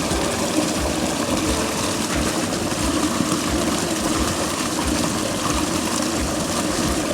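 Fast river water rushing under a crust of ice, a steady, even rush.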